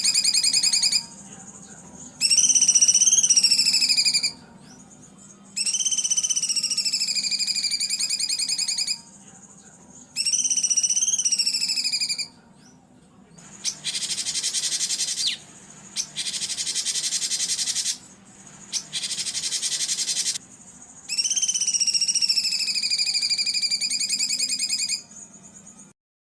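Songbird singing rough, rapidly pulsing trilled phrases of one to three seconds each, separated by short pauses. In the middle come two harsher, rasping bursts.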